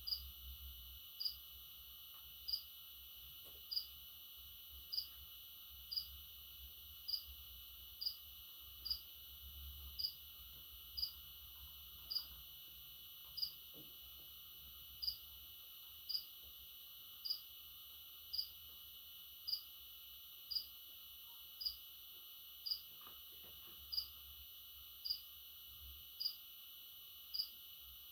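Short, high chirps repeating evenly about once a second over a faint steady hiss.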